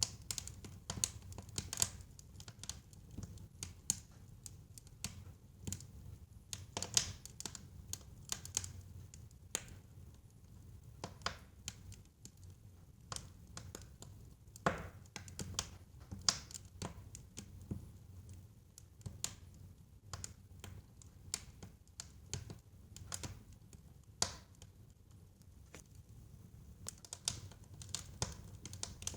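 Wood fire burning in a fireplace: irregular sharp pops and crackles, a few louder snaps among them, over the low, steady rumble of the flames.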